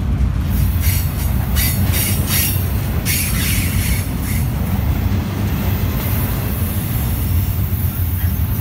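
Double-stack intermodal freight train passing close by: a steady low rumble of the well cars rolling over the rails, with several brief high wheel squeals in the first few seconds.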